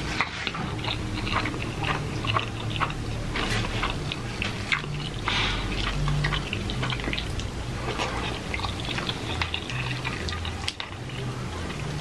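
Close-miked wet chewing and lip smacking of people eating roast chicken and instant noodles: many short, sharp smacks and clicks throughout.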